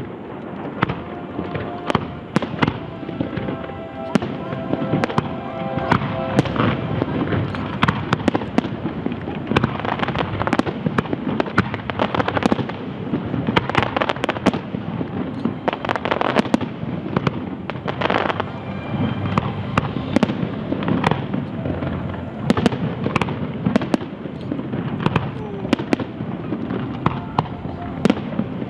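Large aerial fireworks display: a continuous run of shell and cake bursts, dozens of sharp bangs and crackles following one another with no letup.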